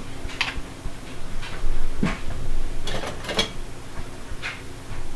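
A spoon scraping and knocking against a jar while scooping out coconut oil that is firm at room temperature: a handful of short scrapes and knocks, loudest around the middle.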